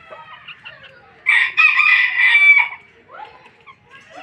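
A Polish chicken rooster crowing once, a loud call of about a second and a half starting just over a second in. Faint clucking and chirping from the hens comes before and after it.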